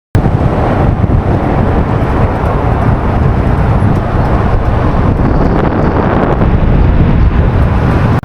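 Loud wind noise buffeting the microphone, a steady rumbling roar with no clear pitch that starts abruptly out of silence.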